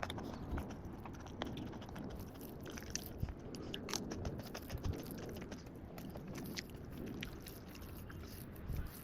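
A person eating a meal of dal and cucumber: irregular small crunches and chewing sounds, with no steady rhythm.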